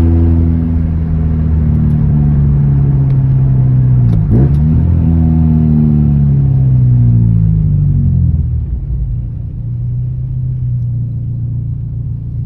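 Nissan S15 Silvia's naturally aspirated SR20DE inline-four running through an aftermarket exhaust (Apex header, straight pipe in place of the catalytic converter, 5Zigen Super Lap muffler) while driving. The engine note sinks slowly, dips and jumps sharply back up about four seconds in, then falls away until about eight seconds in. After that it settles to a quieter, steady low note.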